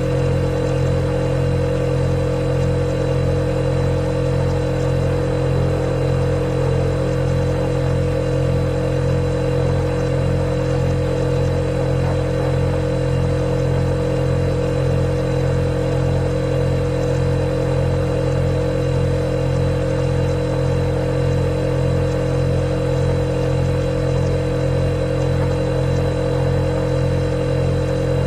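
Refrigerator running, a steady hum with several steady tones held over it, unchanging throughout.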